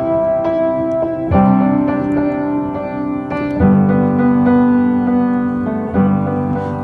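Piano playing slow sustained chords, a new chord struck about every two seconds, as the introduction of a song.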